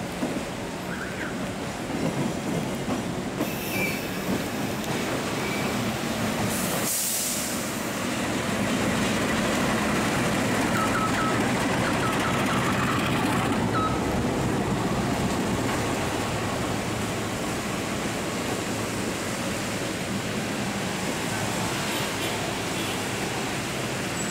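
Passenger train rolling past on the rails, a steady rumble of coaches and wheels, with a sudden break about seven seconds in and a few short, faint high wheel squeals soon after.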